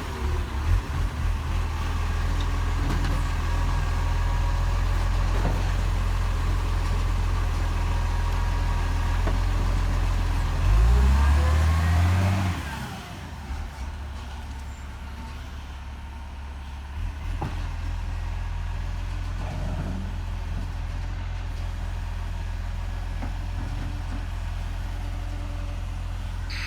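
Garbage truck engine running steadily, revving up about ten seconds in and then dropping back, after which it settles to a quieter, even run.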